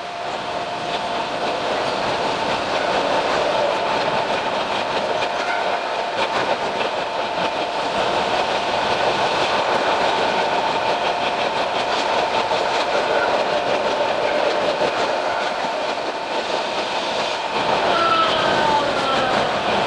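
Narrow-gauge electric train running, heard from the cab: a steady running noise with two held tones, and a few falling whining tones near the end.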